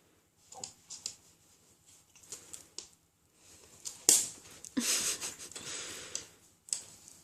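Scattered taps and rustles from a cat batting and pouncing on a toy bird, with a sharp knock about four seconds in followed by a stretch of rustling and scuffling.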